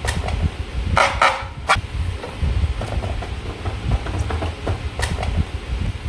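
Close-up handling noise from slime making: a steady low rumble of hand and table contact, with a short crackling rustle about a second in and a few sharp clicks.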